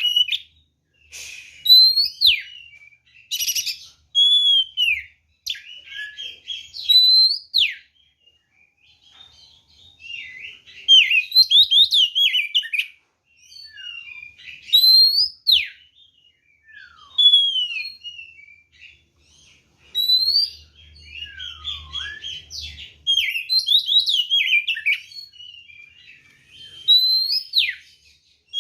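Oriental magpie-robin singing loud phrases of clear whistled notes that sweep up and down, separated by short pauses. This is the full, combative song that keepers play to provoke another magpie-robin into answering.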